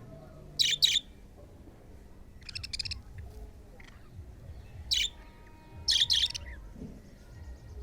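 Budgerigars chirping: short, sharp high calls in little clusters, including one quick rattling run of notes about two and a half seconds in.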